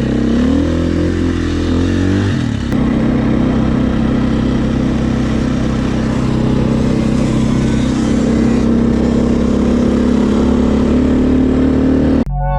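Dirt bike engine running under throttle, its pitch rising for about two seconds, dropping, then holding steady. Right at the end it cuts to guitar music.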